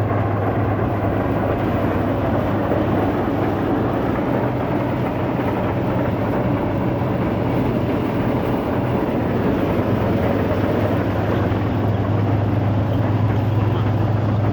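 Tractor-driven maize sheller running steadily, with a loud, even low engine hum under a dense rattle of the working machine.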